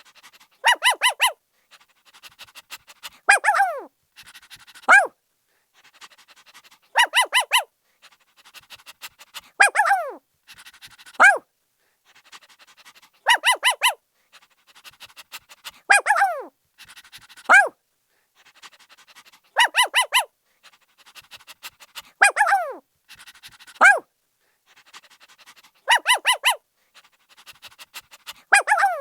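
Puppy barking in short, high-pitched yips: quick runs of about four yips and single yelps that fall in pitch, with soft breathy noise between. The same sequence repeats about every six and a half seconds.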